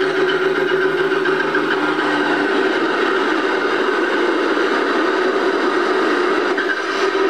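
Tractor engine running steadily; a lower steady tone in the sound drops out about two and a half seconds in.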